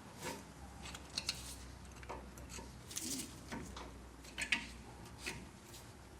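Irregular light metallic clicks and clinks of hand tools and steel parts being handled while working on a front axle knuckle.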